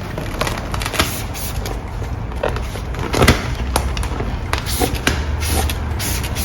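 Work noise: irregular taps, clicks and scraping over a low steady hum, typical of film being handled and squeegeed onto a car door panel.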